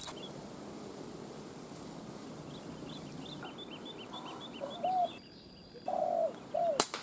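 Spotted dove giving a few short, arched coo notes in the second half, with a small bird chirping rapidly and high-pitched before it. A single sharp click comes just before the end.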